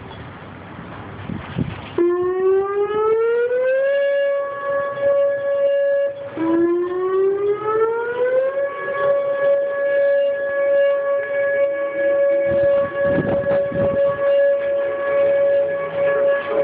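Tornado warning siren winding up: a single tone rising in pitch for about two seconds, breaking off briefly, rising again, then holding a steady wail.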